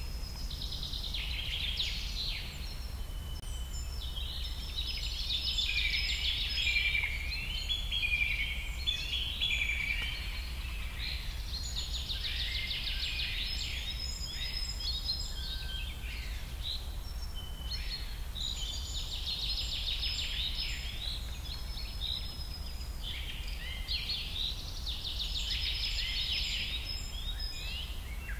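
Birds singing: bouts of rapid high chirps and trills every few seconds, over a steady low hum.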